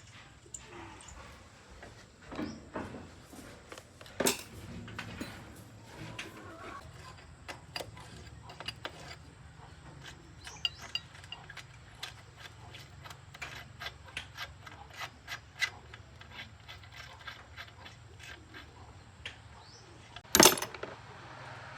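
Irregular small clicks, clinks and knocks over a low steady hum, with a louder knock about four seconds in and the loudest one near the end.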